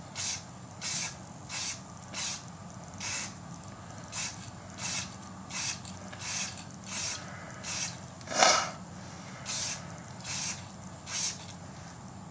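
Aerosol spray-paint can sprayed in short hisses, about one every two-thirds of a second, as light mist-coat passes are laid on. One louder, fuller burst comes about eight and a half seconds in.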